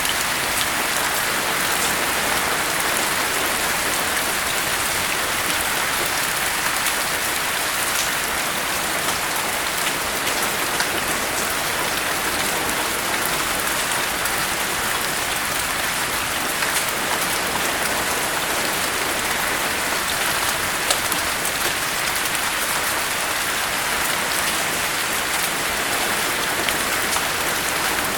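Steady rain falling on surfaces, a constant hiss with many fine drop patters and no letup.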